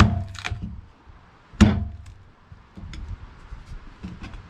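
Axe chopping into a large log: two heavy blows about a second and a half apart, each with a short ring, then a few lighter knocks. The axe is rusty and grabby.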